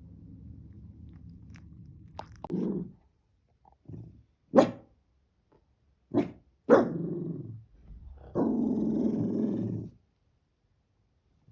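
A small dog growling low, then barking in about five short, sharp barks, ending with a louder, longer growl.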